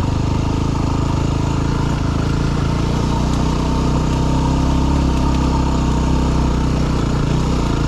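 Yamaha WR250R dual-sport motorcycle's single-cylinder four-stroke engine running steadily, its pitch nearly constant.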